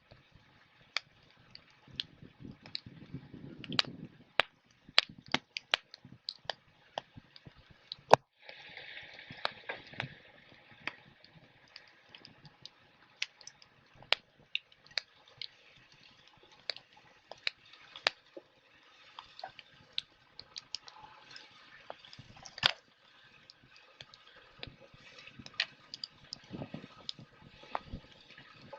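Wood fire crackling, with irregular sharp pops and snaps, the loudest about eight seconds in followed by a brief hiss.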